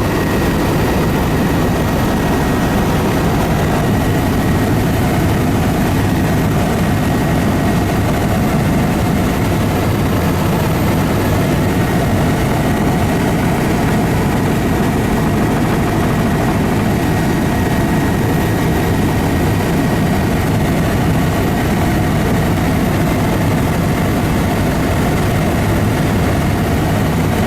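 Aircraft engine drone heard from on board during flight, loud and steady throughout with no change in pitch.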